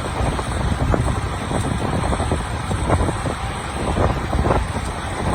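Wind rumbling on the microphone over steady street traffic noise.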